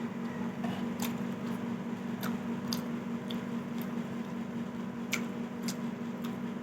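Close-up eating sounds of chicken porridge: soft wet chewing with about six scattered sharp mouth clicks, over a steady low hum.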